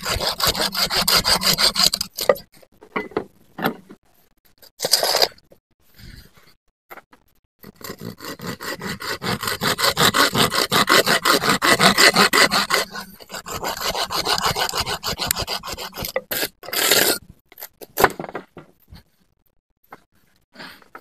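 Hand saw cutting through wood in runs of quick back-and-forth strokes, stopping for short pauses between runs.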